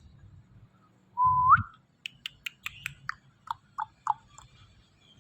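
Indian ringneck parakeet whistling: one clear whistle about a second in that holds its pitch and then slides up, followed by a quick run of sharp clicks and a few short chirps.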